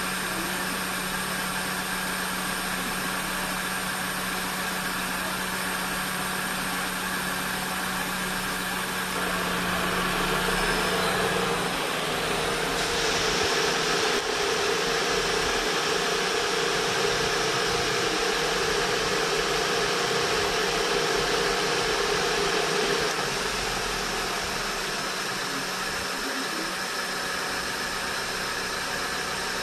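Four-cylinder engine of a 2000 Honda City Type C idling steadily with its idle air control valve blocked off and the idle set at the throttle body. From about ten seconds in it gets louder and fuller for some thirteen seconds, then settles back.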